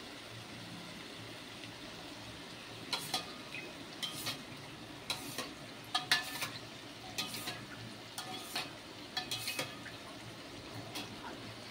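Masala with brinjal pieces and green peas sizzling steadily in oil in a non-stick kadai, frying until the raw smell goes. From about three seconds in until near ten seconds, a run of sharp clinks and scrapes of a utensil against the pan.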